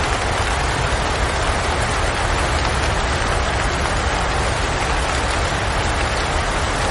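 Steady rain falling as an even, unbroken hiss, with a low rumble underneath.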